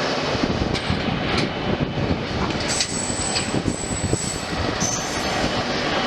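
Train running along the track: a loud, steady rush of wheel-and-rail noise with scattered clicks. A thin, high wheel squeal starts about three seconds in and lasts about a second and a half.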